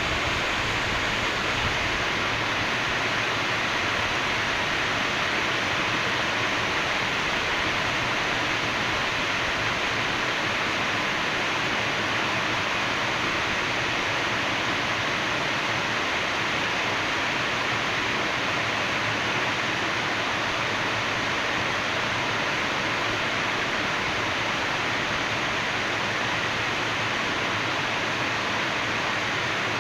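Heavy rain falling steadily: an even, unbroken hiss with no thunder or separate drops standing out.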